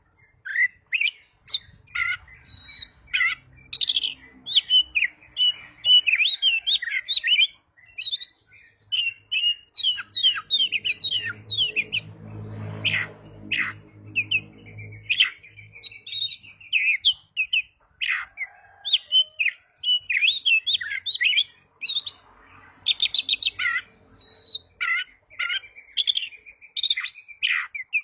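Oriental magpie-robin (kacer) singing a fast, varied song of whistles and chirps, the notes following each other almost without pause. For a few seconds near the middle, a lower, deeper pitched sound sits beneath the song.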